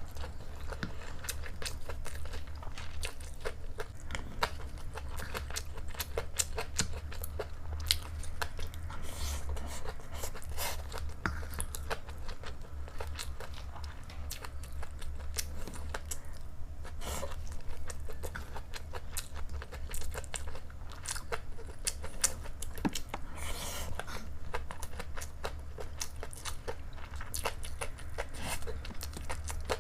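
A person chewing fried rice close to the microphone, with many small clicks and crunches throughout, over a steady low hum.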